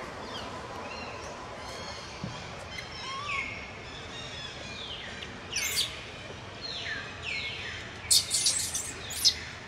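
Birds calling repeatedly: short down-slurred chirps about once a second, with a quick run of sharper, louder chirps near the end.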